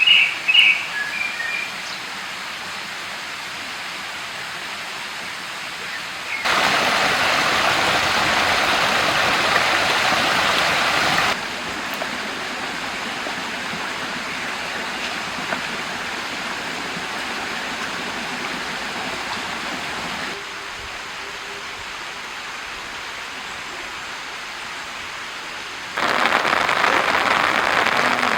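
Steady rushing outdoor noise, like water or wind through the trees, that jumps up or down in level abruptly four times. A bird chirps a few times right at the start.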